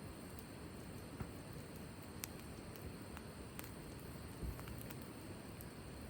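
Wood campfire burning: a steady low rumble of flame with a few sharp crackles and pops scattered through.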